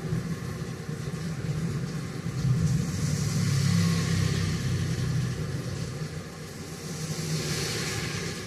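Steady rain hiss over a low rumble, the hiss swelling about three seconds in and again near the end.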